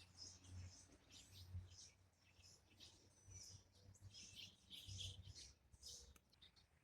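Faint bird chirps and calls: many short, high notes, some gliding, over low intermittent rumbling.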